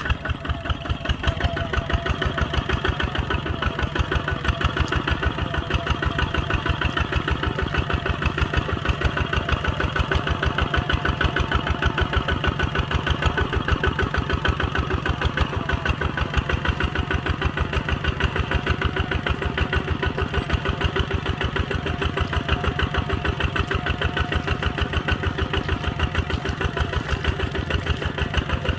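Kubota ZT140 walking tractor's single-cylinder diesel engine running steadily, with an even, rapid chugging beat that gets a little louder about a second in.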